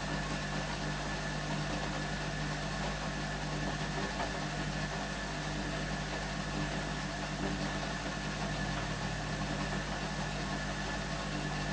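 Hoover A3110 Electronic 1100 washing machine in its normal wash action at low water level: the drum motor running with a steady hum.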